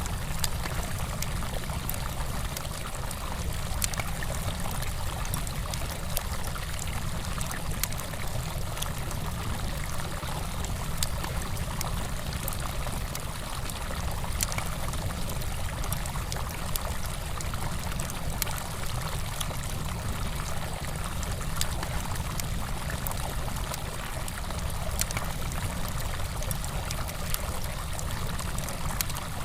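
A river flowing steadily over stones, with a campfire's frequent small crackles and pops over it.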